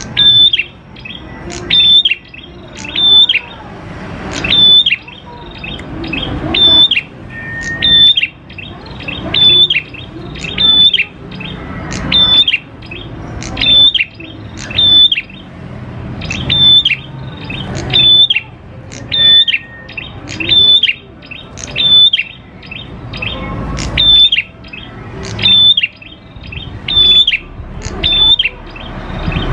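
Prenjak klawu singing in a steady run of sharp, high repeated calls, a little more than one a second.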